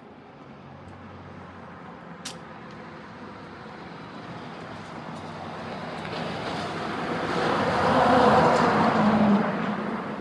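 A vehicle approaching, growing steadily louder over several seconds, passing close about eight to nine seconds in and then starting to fade. A single sharp click about two seconds in.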